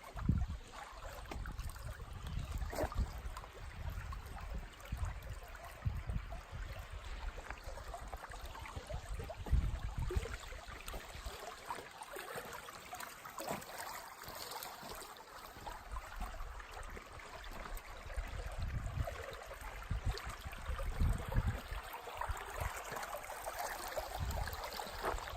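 Stream water flowing and trickling, a steady rushing hiss, with frequent low thumps on the microphone.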